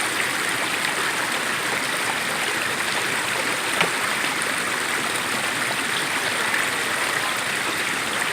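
A rain-swollen creek that is usually dry, running full after heavy rains: a steady, even rush of flowing water.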